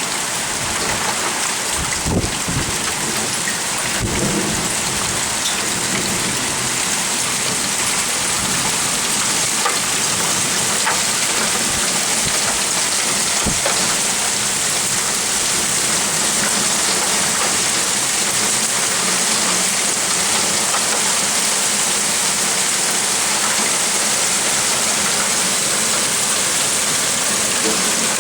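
Heavy rain of a summer thunderstorm pouring down steadily, with a few short low rumbles of thunder, mostly in the first few seconds.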